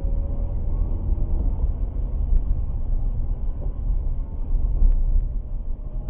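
Steady low rumble of a car on the move: engine and road noise, with a few faint ticks.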